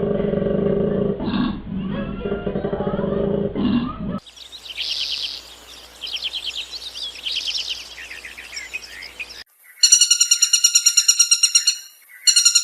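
A sequence of animal calls: a low-pitched, drawn-out call for about four seconds, then scattered high bird chirps, then a loud, high trill of rapid pulses, about eight a second, in two bursts near the end.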